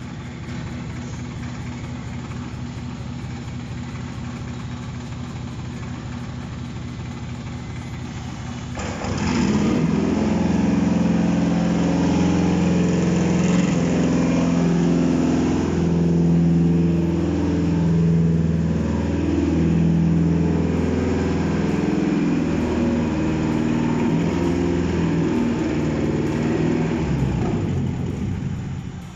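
Toyota 1ZZ four-cylinder engine on a test stand, started for the first time, with a steady rhythmic sound at first. The sound gets clearly louder about nine seconds in and stays so until near the end.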